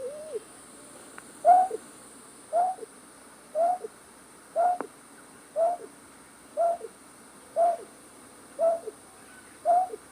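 A night bird's short hooting call, repeated steadily about once a second, each call a note that drops in pitch with a brief second note after it. It is a call recording used as a lure for trapping night birds.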